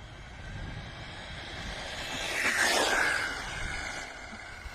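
Brushless-motor RC car driving past at speed: a motor whine and tyre noise that grow louder, peak just under three seconds in, then fade as it moves away.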